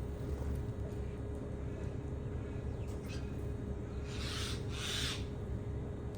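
Two harsh, raspy bird calls in quick succession about four seconds in, over a steady low background rumble.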